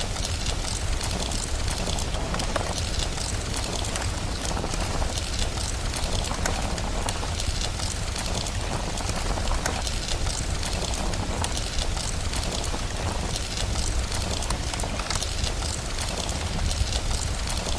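Steady rain mixed with a crackling wood fire: an even hiss of rain over a low rumble, sprinkled with many small, quick crackles.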